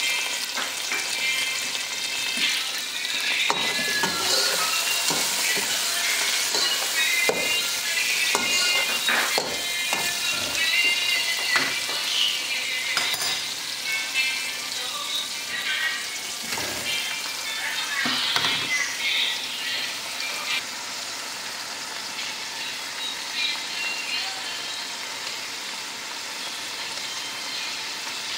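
Sliced onions, garlic, tomato and whole spices sizzling in hot oil in a pan. A utensil stirs and clinks against the pan many times through the first two-thirds, then the sizzle goes on more quietly.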